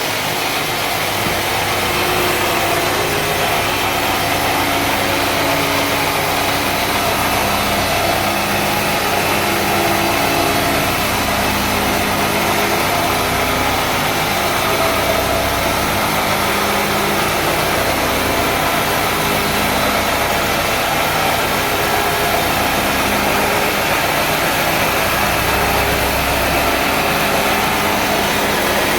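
Sawmill's engine running steadily at a constant pitch, with a dense hiss of machinery over it.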